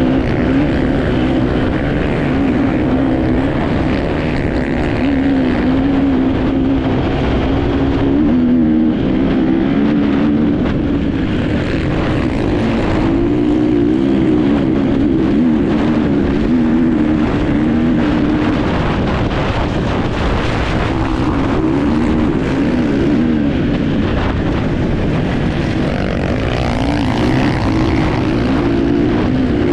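Enduro motorcycle engine running hard, its pitch rising and falling with the throttle, over steady wind and rumble on the on-board camera microphone.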